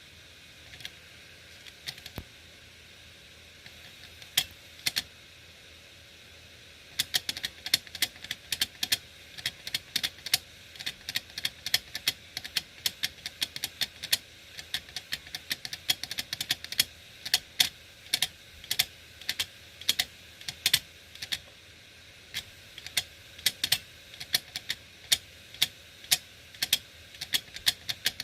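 Hard disk drive making abnormal clicking noises: a few scattered sharp clicks at first, then from about seven seconds in a fast, irregular clatter of clicks. A faint steady hum and hiss run underneath.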